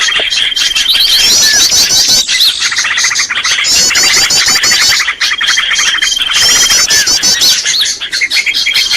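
Bird-luring call recording: small birds chirping and twittering in dense, fast trills and sharp calls, the same phrases recurring every few seconds like a looped track.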